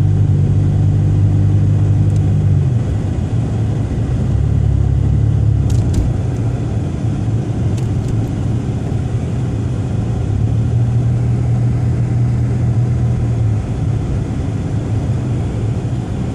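Car engine running with a steady low hum under road noise; its pitch shifts a few times, and a few faint clicks come about six and eight seconds in.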